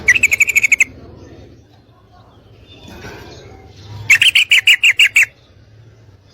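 Yellow-vented bulbul (trucukan), given as a female calling to a male, letting out two quick chattering runs of about ten clear notes each, one right at the start and one about four seconds in.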